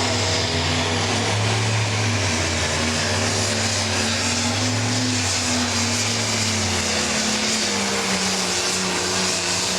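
Pro stock pulling tractor's turbocharged diesel engine running hard under load, a loud steady engine note over a heavy rush of noise. The engine's pitch sags a little in the last few seconds.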